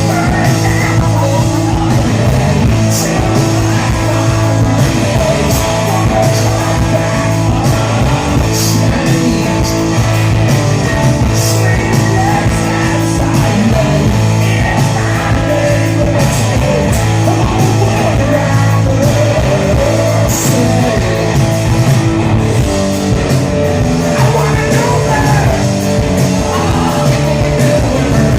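Rock band playing live: electric guitars, bass and drums at full volume, with singing over the top.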